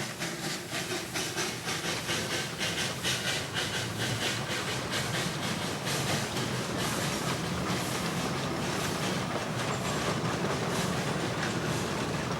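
Narrow-gauge steam locomotive working a train, with quick, even exhaust beats, about three a second, over steam hiss. The beats blur into a steadier running sound in the second half.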